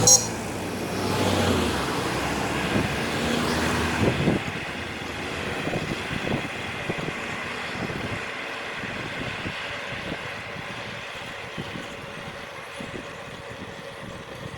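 A sharp click at the start, then a motor vehicle passing close by on the road, its engine note falling in pitch as it goes by and fades. Afterwards there is a steady road background with light irregular rattling.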